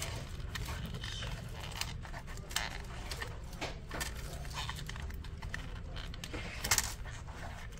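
Irregular small clicks, taps and scrapes of hands and a tool working at a laptop's snap-fit plastic casing, with a louder cluster of clicks near the end, over a steady low hum.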